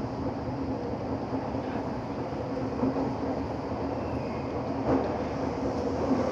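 Inside a Minato Mirai Line limited express train running underground: a steady rumble of wheels on rail with a constant hum. Two brief louder thumps come about 3 and 5 seconds in.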